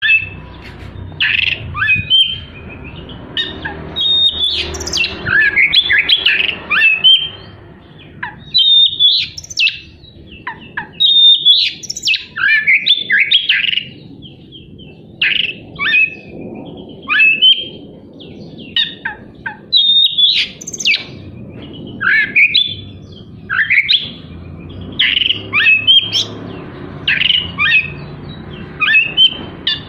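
Oriental magpie-robin (kacer) singing loudly: fast bursts of varied whistles, chirps and harsh notes, the mimicry fill-ins and rough volleys of a competition-style song, with short pauses between phrases.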